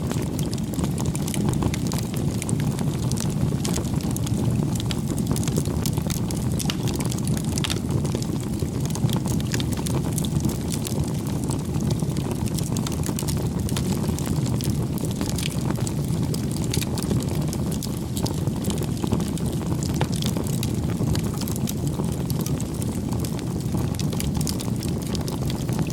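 Campfire burning: a steady low rumble of flames with frequent small crackles and pops from the burning wood.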